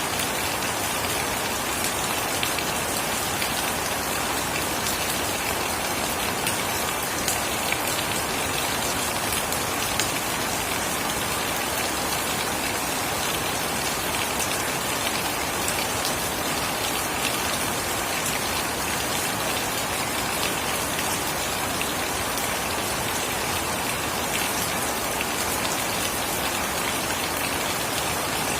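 Steady rain falling, an even hiss with fine drop patter and a few sharper drop ticks, unbroken throughout.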